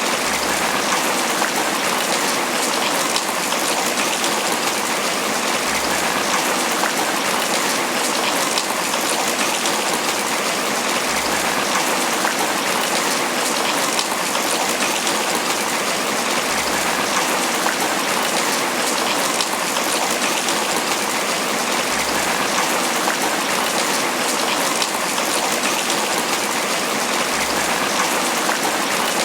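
Steady rain falling on banana leaves: an even, dense patter of many drops that never lets up.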